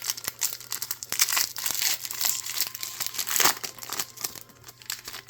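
Foil Pokémon booster-pack wrappers crinkling and tearing as they are handled and opened: a continuous dense crackle that stops abruptly at the end.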